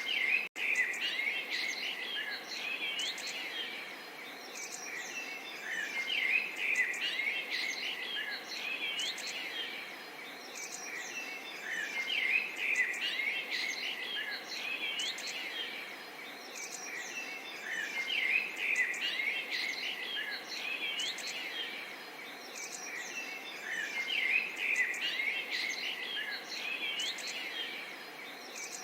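Many small birds chirping and twittering together in swelling waves every few seconds, over a soft steady hiss of gently babbling water. The sound drops out for an instant about half a second in.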